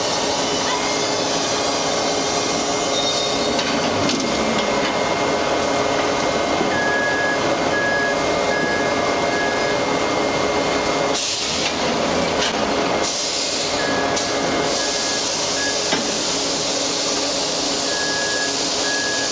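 Steady, dense machinery din of a steel forging shop with a constant hum. An on-off beeping tone comes and goes several times, and there are no clear hammer blows.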